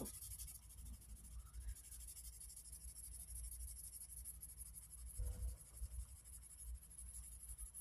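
Faint scratching of a pen on paper, writing and colouring in on a savings challenge sheet.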